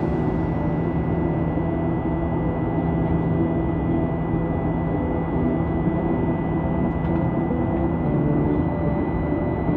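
Steady drone of a jet airliner's cabin in flight, an even rumble with a thin high steady whine running through it.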